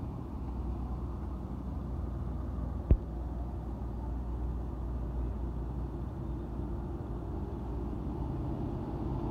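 Steady low rumble of a vehicle running along the road, with one sharp click about three seconds in.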